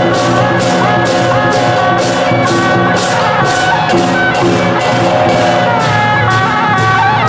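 Procession band music: percussion struck about three times a second, with ringing that carries high, under a wavering pitched melody and steady held tones.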